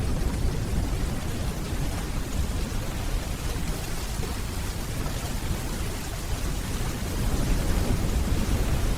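Steady rainfall with a low, rolling rumble of distant thunder underneath, swelling slightly near the end.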